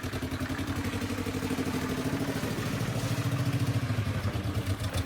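A homemade two-cylinder car engine, made by cutting a four-cylinder in half, pulls the car under hard throttle with a rapid pulsing beat that grows steadily louder. It is down on power and labours to move the car.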